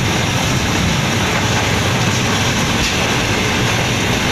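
Steady loud running noise of a moving passenger train, heard from inside the power van that houses the train's kitchen, with no clear rhythm to it.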